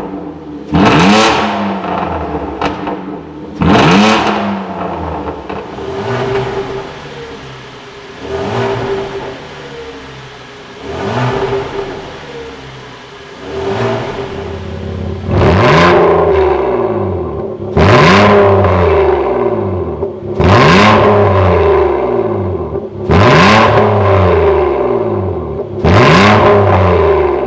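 Hyundai Grandeur HG's 3.0 V6 gasoline engine being free-revved through an aftermarket center-pipe exhaust with dual variable valved mufflers: about ten sharp rev blips a few seconds apart, each rising and falling back to idle. The blips are softer through the middle stretch and loud again from about halfway on.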